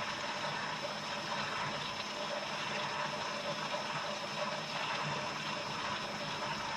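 Steady rush of water around a trolling fishing boat, with a faint steady high tone running underneath.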